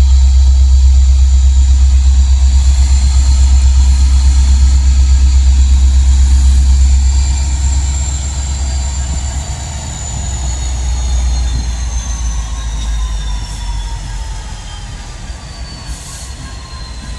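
Freight train cars rolling past with a heavy, loud low rumble and a thin high wheel squeal that slowly falls in pitch; the rumble eases about seven seconds in.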